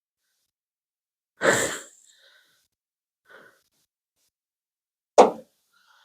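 A breathy exhale, like a sigh, about a second and a half in, then a single sharp tap near the end.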